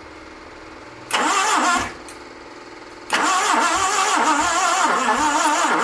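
Starter motor cranking the Isuzu 1.8-litre petrol engine of a Contessa with its spark plugs out, to check that the long-unused engine turns over. There is a short crank of under a second, then from about three seconds in a longer steady crank whose pitch wavers in an even rhythm. The engine does not fire.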